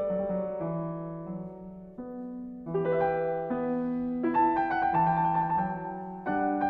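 Background piano music: a gentle melody of sustained notes over a slow-moving bass line.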